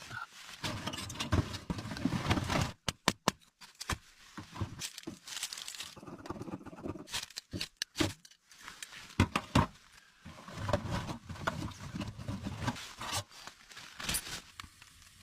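Split firewood and kindling being handled up close in a hot tent, with crinkling, scraping and irregular sharp knocks and clicks. There is a quick run of knocks about three seconds in.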